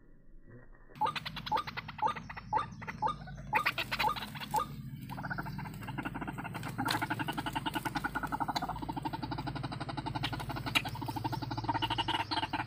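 White-breasted waterhen (ruak-ruak) calls: rapid runs of repeated pulsed notes start about a second in and settle into a dense, steady pulsing chorus about halfway through.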